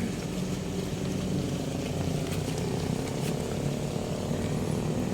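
An engine running steadily at an even, low pitch, with a few faint clicks over it.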